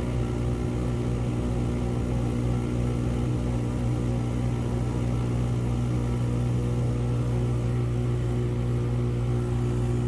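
Steady engine drone with an even low hum that holds constant in pitch and level, heard from inside a vehicle.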